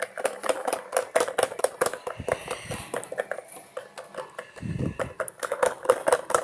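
Miniature washing machine running its wash cycle, a dense, irregular clicking rattle from the tumbling drum, with a brief low thump about three-quarters of the way through.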